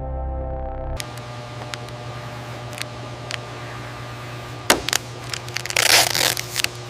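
Ambient music cuts off about a second in, giving way to a steady hum with scattered clicks and a sharp knock. Near the end comes a loud hiss lasting under a second, a paint spray gun burst as clear coat is sprayed.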